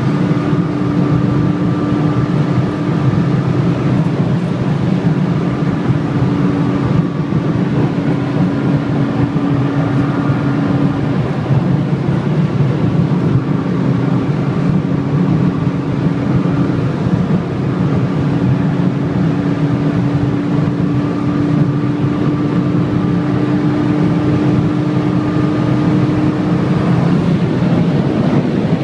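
Vehicle engine droning at a near-constant speed, its pitch holding steady for long stretches over continuous road and wind noise, as in cruising on a highway.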